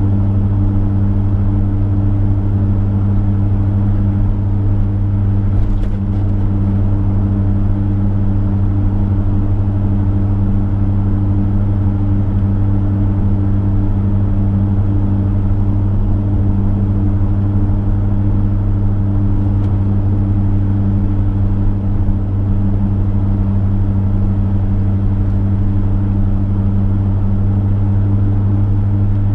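Chevrolet V8 engine droning steadily at a constant cruising speed, with road noise underneath.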